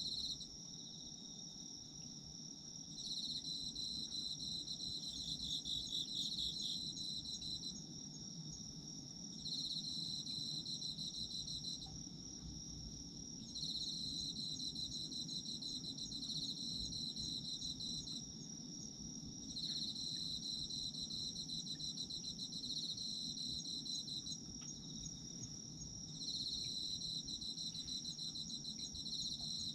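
Autumn insects singing at night: one keeps up a steady, high, unbroken trill, while another gives rapid trills in bouts of a few seconds, about five times, with short pauses between.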